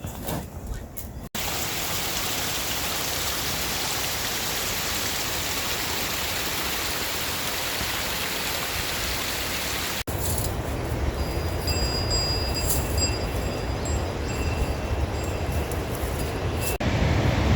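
Steady rush of a fast mountain stream, changing abruptly at hard cuts: a smooth, even hiss at first, then a deeper, rougher rumble with a few thin high tones over it.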